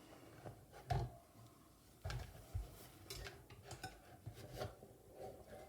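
Light, scattered scrapes and knocks of a utensil against a metal cake tin as a freshly baked cake is worked loose from it.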